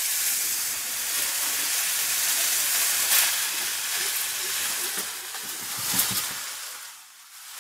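Chopped, freshly washed bathua greens sizzling in hot oil and cumin in a kadhai, a loud hiss that fades gradually over several seconds.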